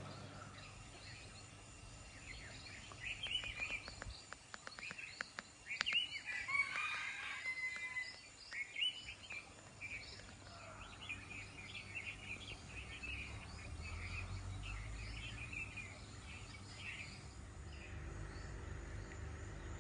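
Several birds chirping and calling again and again, with a louder, busier stretch of calls a few seconds in that tails off near the end.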